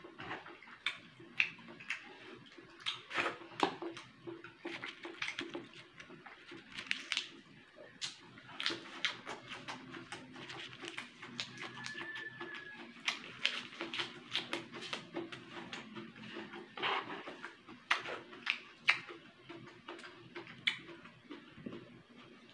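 A person chewing with the mouth open, making wet lip smacks and mouth clicks at irregular intervals while eating rice and a lettuce leaf by hand.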